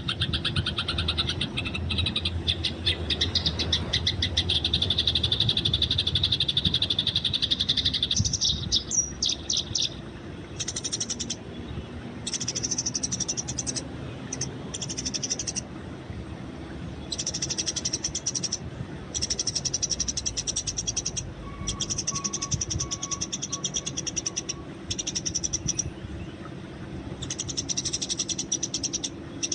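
Eurasian tree sparrows chattering in rapid chirps, the squabbling calls of sparrows fighting. A dense unbroken run of chirps lasts about eight seconds, then the chirping goes on in higher, rapid bursts a second or two long with short pauses between.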